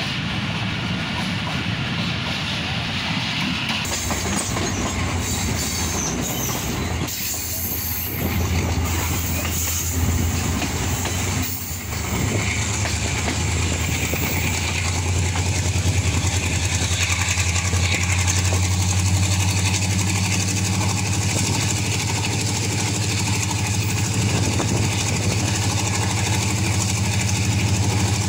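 Diesel locomotive engine running under throttle with a steady low drone. It grows louder about eight seconds in and again after a brief dip near twelve seconds.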